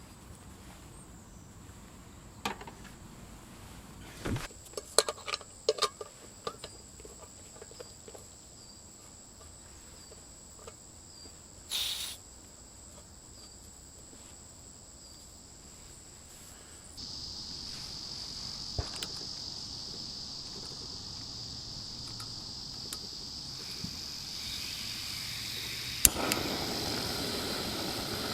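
Insects, crickets by their sound, trilling steadily in high pitch, with a second, louder trill taking over about halfway through. A few scattered clicks and knocks come early on the camp site.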